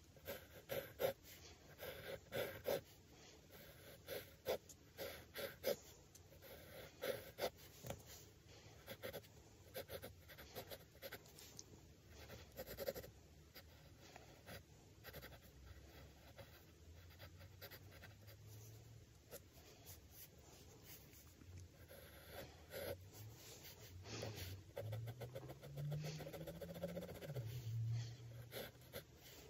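Pencil sketching on drawing paper: irregular short scratching strokes, busiest in the first half. A faint low hum rises in pitch over the last third.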